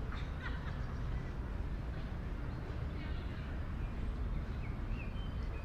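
Outdoor city-park ambience: a steady low rumble of distant city traffic under faint distant voices, with a few short bird chirps near the start and again near the end.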